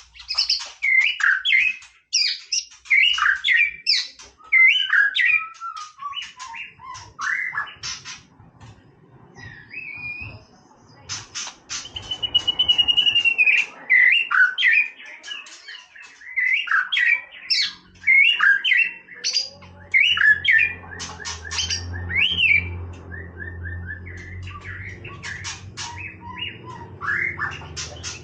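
White-rumped shama singing: a fast, varied run of whistled phrases, chirps and sharp clicks, with one long falling whistle near the middle. A low steady hum comes in about two-thirds of the way through.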